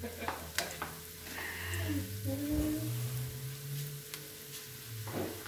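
Onion, garlic and spices frying in oil in a stainless-steel pan on low heat: a soft, steady sizzle with a few small pops in the first second or so.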